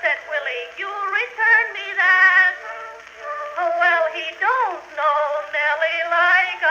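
Music played back from an Edison Blue Amberol phonograph cylinder: an old acoustic recording with no deep bass and no high treble, carrying wavering, gliding melody lines.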